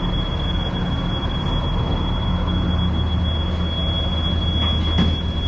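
Idling airport shuttle bus: a steady low engine rumble with a constant high-pitched whine over it.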